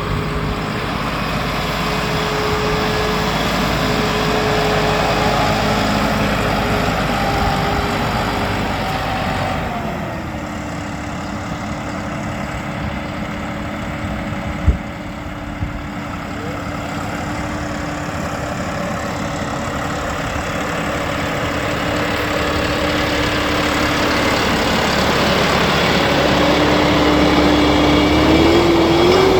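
John Deere 5060E tractor's diesel engine running steadily, its speed dropping about ten seconds in and picking up again near the end. A single sharp click sounds about fifteen seconds in.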